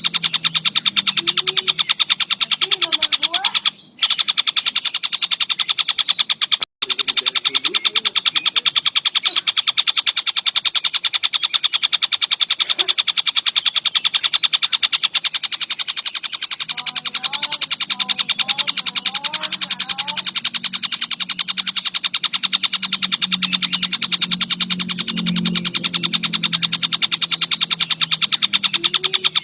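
Tengkek buto kingfisher calling in a fast, unbroken rattle of high notes, cut by two short gaps about four and seven seconds in. Fainter, lower chirps sound underneath.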